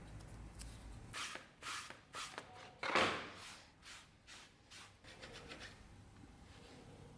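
A run of about eight short scraping strokes, the loudest about three seconds in, dying away over the next two seconds.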